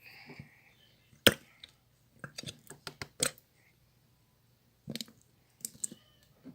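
Sharp clicks and knocks from containers and utensils being handled while making clear slime: one loud knock about a second in, then a quick cluster of clicks, and a few more later.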